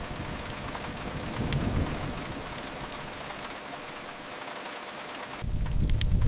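Steady rain hiss with a few sharp crackles from a wood fire. A low rumble fades out partway through and comes back suddenly about five and a half seconds in.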